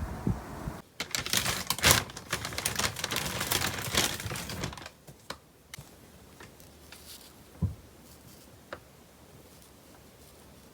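Handling noises indoors: a quick, dense run of clicking and rattling for about four seconds, then a few scattered soft taps.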